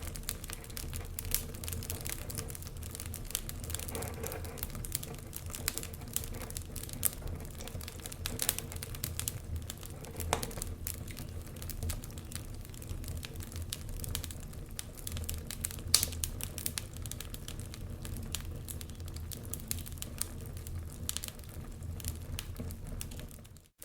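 Wood logs burning in a fireplace, crackling with irregular sharp pops over a low steady rumble of the fire. The sound cuts out briefly near the end.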